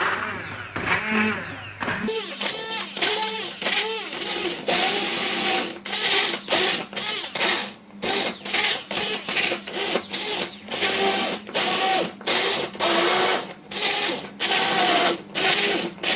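Electric blender puréeing boiled lemon peels in water, its motor pitch and loudness surging up and down over and over as the blades churn through the load.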